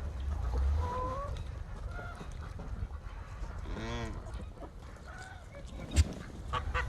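Backyard poultry calling: a few faint short calls and one louder, drawn-out call about four seconds in, with a sharp click near the end.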